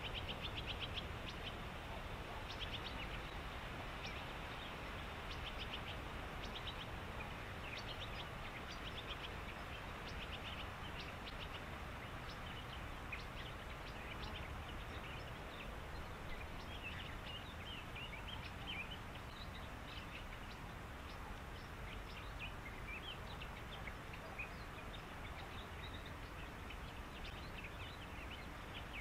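Small birds chirping and trilling over and over, short high calls scattered throughout, over a steady low background rumble.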